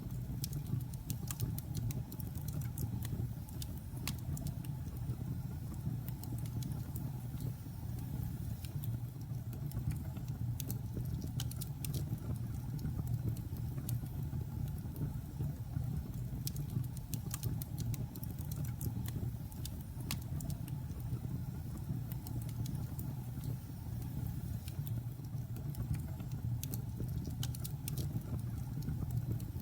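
Logs burning in a fireplace: a steady low rumble of flames with many small sharp crackles and pops.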